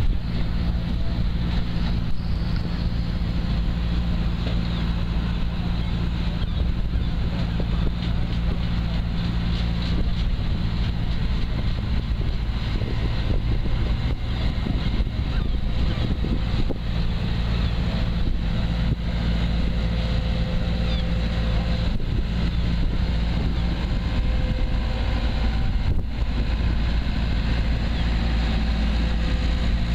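Engine running steadily at an even pitch, with wind noise on the microphone.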